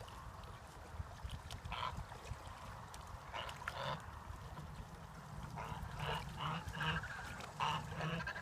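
Domestic ducks quacking: a single call, then two more, then a quick run of calls over the last few seconds, over a steady low background rumble.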